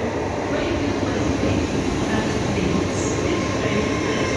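LNER Class 801 Azuma electric train running along the platform close by: a steady rumble of wheels on rail.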